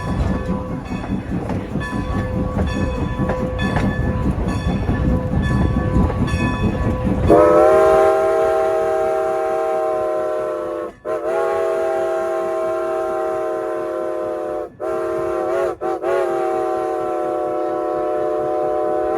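A slow-moving train rumbles along with a regular clickety-clack of wheels over rail joints. About seven seconds in, the locomotive's chime whistle sounds a long, long, short, long sequence, the standard grade-crossing signal.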